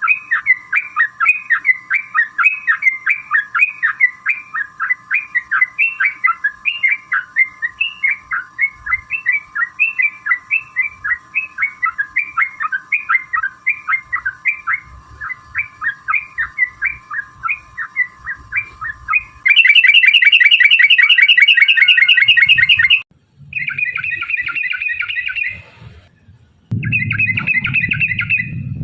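Yellow-vented bulbul (trucuk) song: a long run of repeated chirping notes, about two or three a second. About two-thirds of the way through, a louder, rapid rattling trill cuts in abruptly, then breaks into shorter trill bursts with brief gaps.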